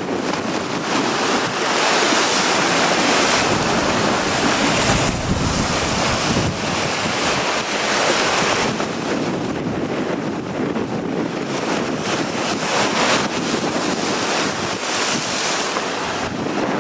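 Strong gusting wind roaring across the microphone, swelling and easing in surges, mixed with ocean surf.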